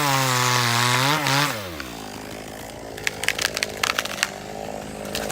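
Chainsaw running loud under load, its pitch wavering as it cuts. About a second and a half in it drops off the throttle and runs on quietly. From about three seconds in, a scatter of sharp cracks and knocks sounds over it.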